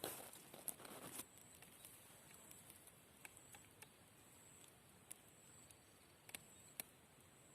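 Near silence with faint, scattered sharp ticks and a soft rustle that dies away in the first second.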